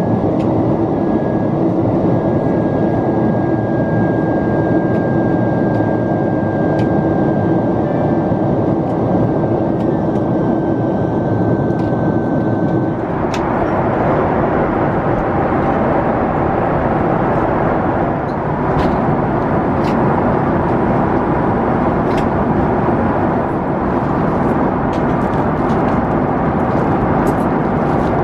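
Steady jet airliner cabin noise inside a Boeing 767-400ER: engine and airflow noise. A faint high whine slowly drifts down and stops about halfway through, where the noise changes character. A few light clicks come near the end.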